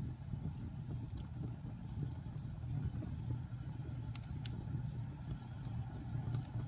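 Wood fire burning in a fireplace: a steady low rumble of flames with scattered sharp crackles and pops, several coming close together about four seconds in.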